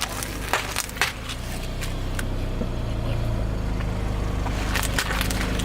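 Car engine running steadily at low speed while a tyre crushes brittle objects, giving sharp cracks and crunches: several in the first two seconds and a quick cluster near the end.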